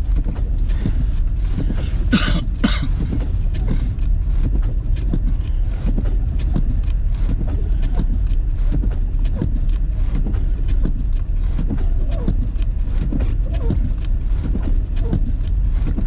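Car driving on a snowy road: a steady low rumble from the road and engine, with frequent small knocks and thumps. Two short, sharp bursts come about two seconds in.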